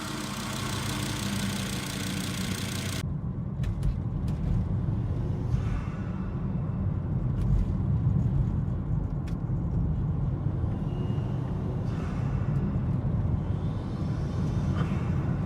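Volvo S60 2.5T's turbocharged inline five-cylinder engine, breathing through a Snabb cold air intake, with a steady deep rumble while driving and a few brief airy hisses.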